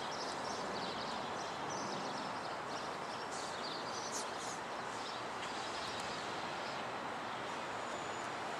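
Steady outdoor background noise with small birds chirping on and off.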